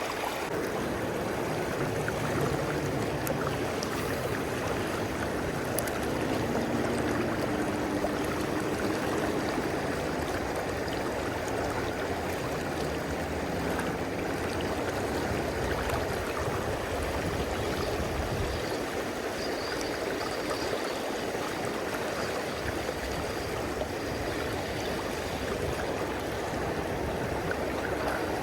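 River current flowing steadily, a constant rushing of moving water.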